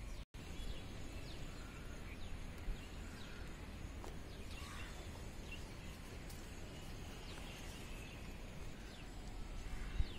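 Small birds chirping, many short falling notes scattered throughout, over a steady low outdoor rumble.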